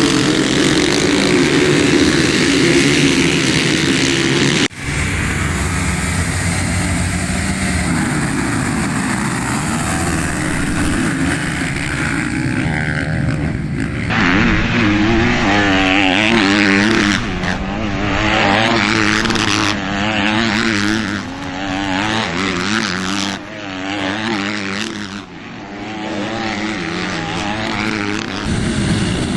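Motocross bike engine revving up and down, its pitch rising and falling as the throttle opens and closes, over a steady rush of noise. The sound cuts off abruptly about five seconds in and picks up again straight away.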